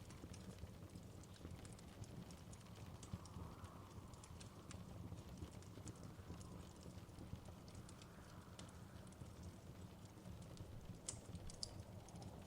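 Wood fire crackling in a fireplace: scattered sharp pops and crackles over a low, steady rumble, with a few louder pops about eleven seconds in.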